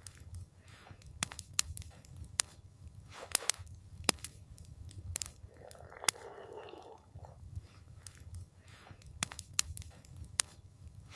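Wood campfire crackling: irregular sharp pops and snaps, several a second at times, over a low steady rumble, with a soft rush of noise around six seconds in.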